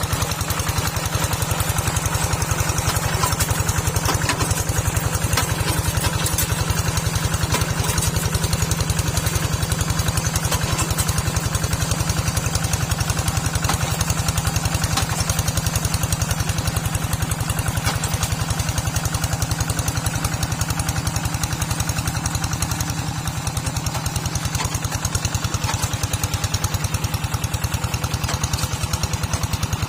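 Small tractor's engine running steadily with a fast, even beat.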